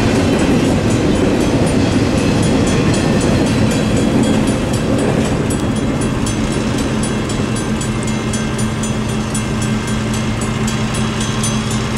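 A BNSF intermodal freight train's container well cars rumbling and clattering past on the rails. The last cars go by a few seconds in, and the noise eases into a steady hum with a fast, even ticking.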